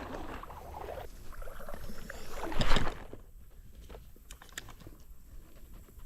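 Water sloshing and splashing in a shallow creek, as from someone wading, with the loudest splash about two and a half seconds in. After that it goes quieter, with a few faint clicks.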